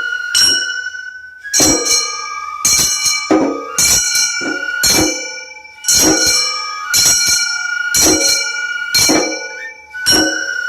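Gion-bayashi festival music: a bamboo transverse flute holding and shifting a high melody over a steady rhythm of small bronze hand gongs (kane) struck about once or twice a second, each strike ringing brightly.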